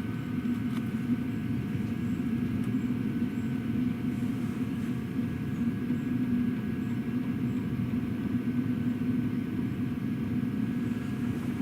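Diesel heater running steadily, its exhaust passing through an add-on silencer: an even, low rumble that holds steady throughout.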